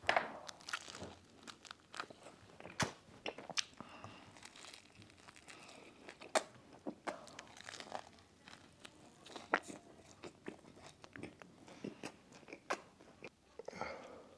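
A man biting into a homemade egg McMuffin (English muffin with egg and turkey bacon) and chewing it. A bite at the start, then irregular crunching and chewing sounds with short pauses between them.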